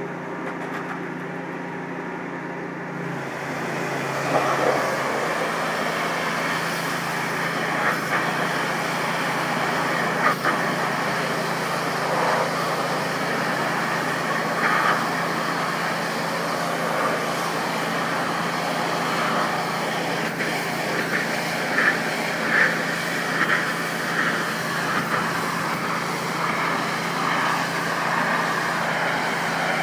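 Pressure washer's motor running steadily, with the hiss of its high-pressure water jet starting about three seconds in and continuing, dotted with brief louder spatters as the spray strikes the wall.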